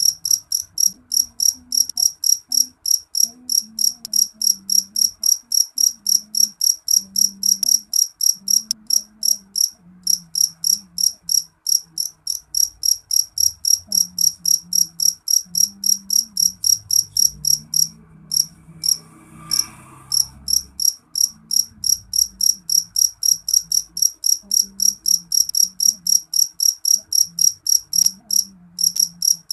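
Jangkrik jeliteng (black field cricket) chirping shrilly and loudly: a steady train of short high-pitched pulses, about four a second, broken by a few brief pauses.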